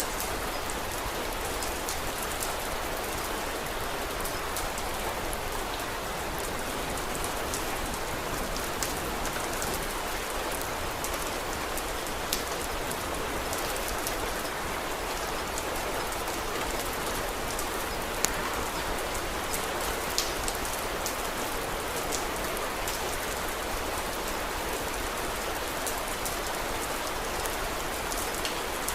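Steady rain ambience with scattered sharp crackles of a wood fire, a few of them louder, about twelve, eighteen and twenty seconds in.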